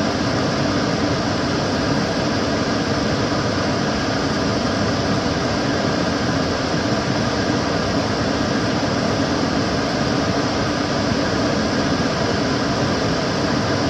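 Kitchen cooker hood extractor fan running steadily: an even rush of air with a faint hum, unchanging throughout.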